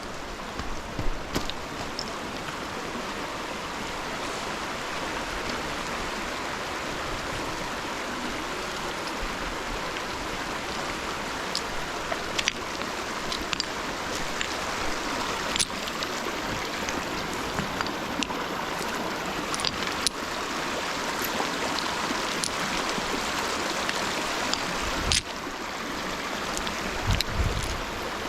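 A steady rushing noise with scattered light clicks and knocks.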